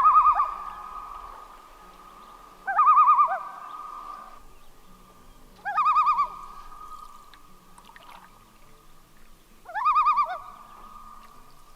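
Common loons calling: four quavering tremolo calls a few seconds apart, with a long, steady note held between them.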